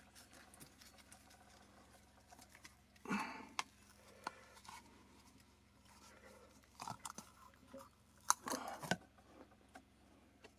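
Silicone mold being flexed and peeled off a fresh resin casting: a few short bursts of handling and peeling noise, about three seconds in and again twice later, with quiet between.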